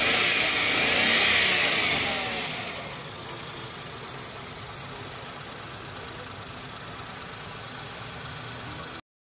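Hyundai Eon's small three-cylinder petrol engine idling. It is louder, with a hiss, over the first three seconds, then settles to a steady, even running sound that cuts off abruptly near the end.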